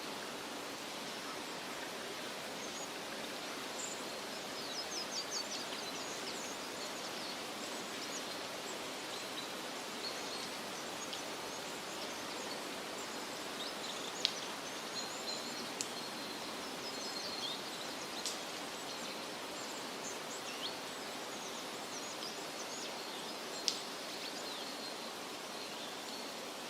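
Forest ambience: a steady rushing hiss with small birds chirping high and quick throughout, a quick series of calls about five seconds in, and a few sharp ticks later on.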